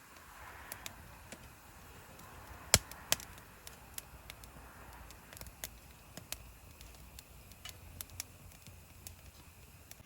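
A series of irregular sharp clicks and knocks over a faint steady background, the loudest about three seconds in.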